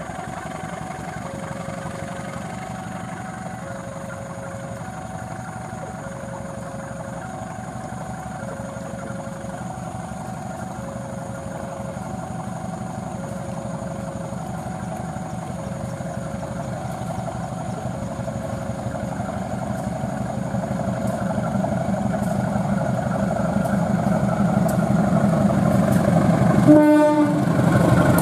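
A level-crossing warning alarm sounds two alternating tones, each held about a second. Under it a CC 203 diesel-electric locomotive's engine grows steadily louder as the train approaches. Near the end the locomotive gives a short horn blast.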